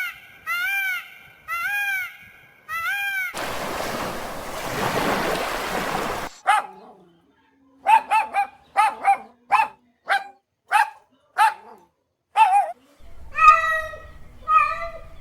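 A string of short, sharp dog barks. Before them comes a run of evenly repeated rising-and-falling animal calls, cut off by a few seconds of noise. Near the end come a few longer calls over a low rumble.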